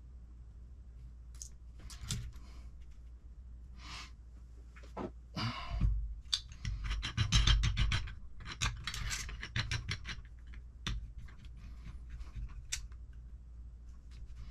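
Small parts and tools handled at a workbench during assembly of an RC car transmission: scattered clicks, taps and scraping, with a quick run of clicks in the middle.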